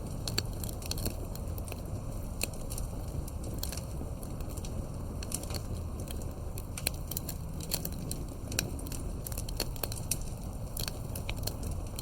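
Wood fire burning with a steady low rush and frequent irregular crackles and pops.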